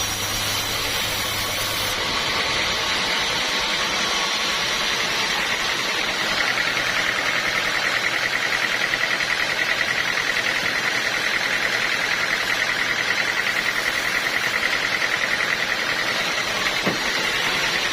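A sawmill saw cutting a teak log: a steady, noisy machine whine with a fast, even flutter, growing louder a few seconds in.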